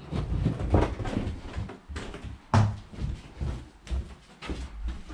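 Irregular knocks and bumps of someone moving about and handling things indoors, with one sharp knock about two and a half seconds in.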